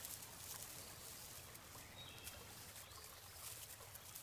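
Faint river ambience: a soft wash of water with a few faint, short high chirps like distant birds.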